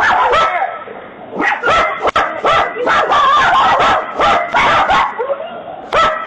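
A dog barking and yipping over and over in short, loud calls.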